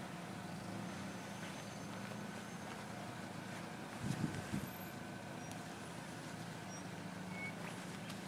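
Vehicle engines idling in stalled traffic on a snowy road, a steady low hum. About four seconds in there is a short, louder low burst.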